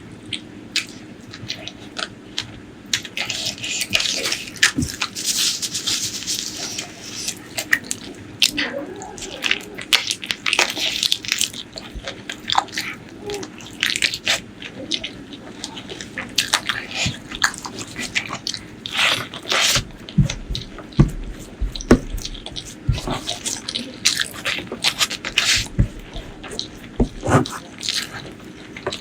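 Close-miked mukbang eating: wet chewing, lip smacking and biting, full of short sticky clicks and squishes as saucy food is eaten. A few low bumps come about two-thirds through.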